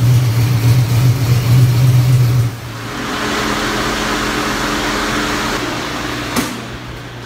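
Ford 408 Windsor stroker V8 running steadily on the dyno, then cutting off abruptly about two and a half seconds in. A quieter, steady rushing hiss carries on after it, with a single click near the end.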